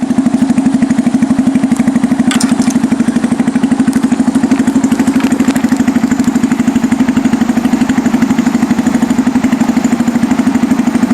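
Motorcycle engine idling steadily, an even fast putter of about fifteen beats a second.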